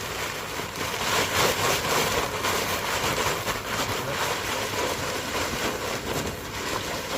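10 mm gravel pebbles pouring out of a bag into a trench, a dense steady rattling rush of stones.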